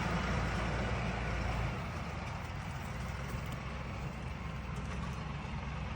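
Mahindra tractor engine running steadily with a low rumble, which eases slightly about two seconds in.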